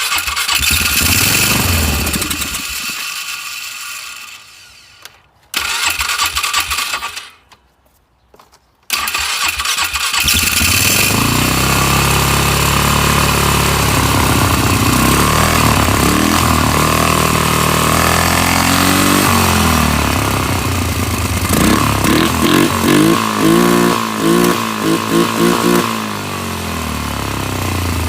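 Polaris 500 HO ATV engine firing and dying out twice, then catching and running steadily, with several quick throttle blips near the end.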